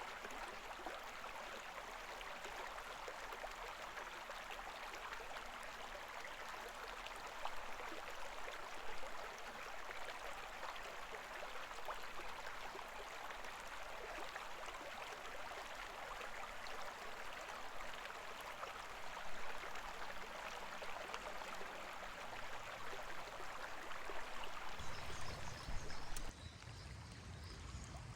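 A shallow river babbling and rushing steadily over stones. About 26 seconds in, the sound changes abruptly to a duller wash with more low rumble and less hiss.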